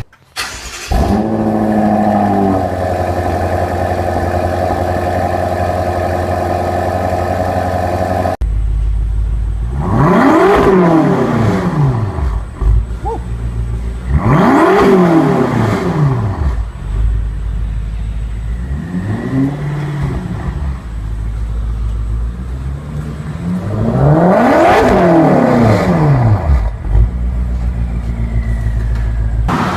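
A performance car's twin-turbo V8 idles steadily, then is revved four times in free revs, each one rising quickly and falling back to idle. The third rev is the shortest and the last one climbs highest.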